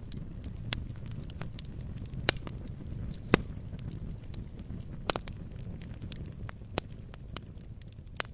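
Wood campfire burning with a low, steady rumble, and irregular sharp crackles and pops from the burning wood; the loudest pops come about a third of the way through and just past halfway.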